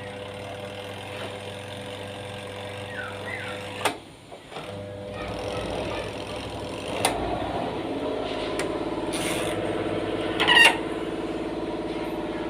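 Washing machine motor humming steadily, then cutting off with a click about four seconds in. It starts again and climbs to a steady hum, with a few sharp clicks and a louder knock near the end. The machine's spin is weak.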